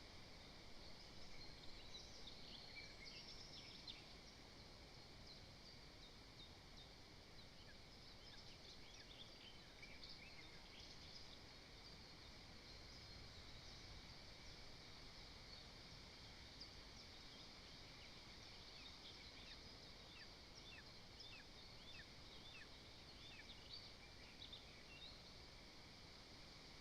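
Faint forest ambience: scattered short chirps of distant songbirds over a steady hiss.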